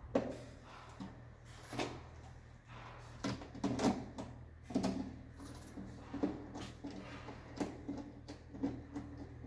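Irregular plastic-and-metal clicks and knocks of modular circuit breakers being handled and fitted into a distribution board, about a dozen over the stretch, over a steady low hum.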